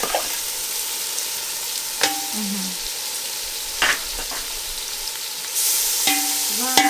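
Chopped tomatoes and onions sizzling in a hot metal pot while being stirred with a slotted metal spoon, which knocks against the pot a few times. The sizzle grows louder near the end.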